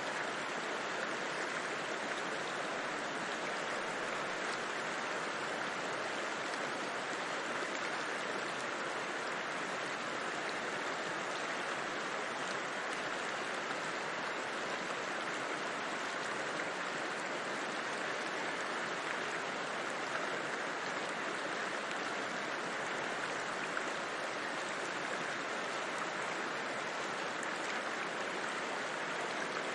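River flowing: a steady, unbroken rush of running water, fullest in the middle of the range.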